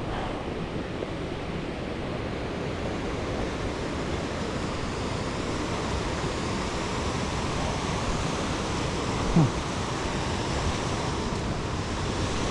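Steady rush of a river waterfall, growing slightly louder. A short sharp sound stands out about nine seconds in.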